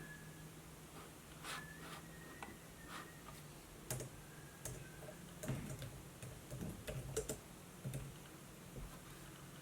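Laptop keyboard typing: sparse, irregular key clicks, coming faster for a few seconds in the middle.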